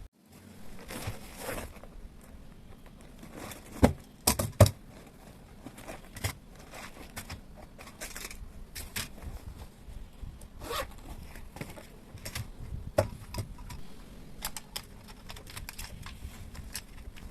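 Close handling noises: rustling and scraping with scattered clicks, and a few sharp knocks about four seconds in.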